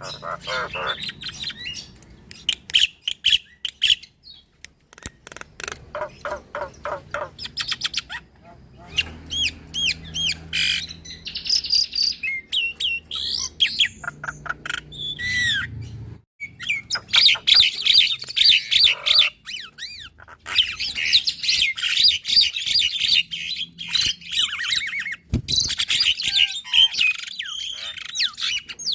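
Javan myna and black-winged myna singing together in a varied chattering song of rapid rattling trills and whistled notes that glide up and down, with a short break about 16 seconds in.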